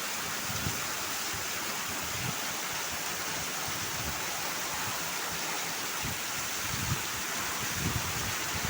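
Heavy rain pouring down steadily in a windstorm, with brief low gusts of wind buffeting the microphone every second or two.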